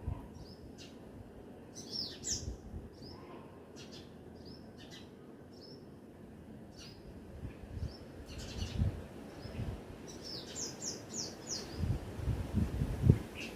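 Small songbirds chirping: many short, high chirps, each sliding downward in pitch, some coming in quick runs of four or five. Irregular low thumps and rumbles come and go under them, the loudest near the end.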